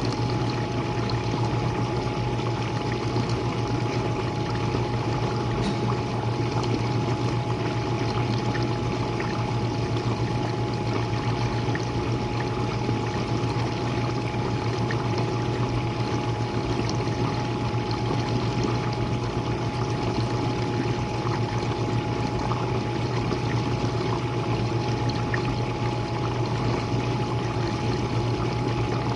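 Jenn-Air dishwasher running, heard from the bottom of the machine: the pump motor's steady hum under water spraying and splashing inside the tub, with a thin steady whine above it.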